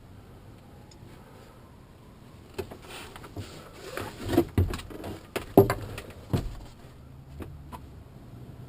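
A cluster of irregular knocks and rattles lasting about four seconds, the two loudest knocks about a second apart, over a low steady hum.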